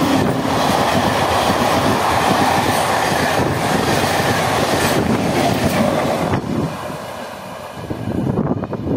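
An RCF-built electric MEMU train passing at speed a few metres away: a loud rush of wheels on rails with clacking over the joints. The noise drops off about six and a half seconds in as the last coach goes by, with a brief flurry of clacks near the end.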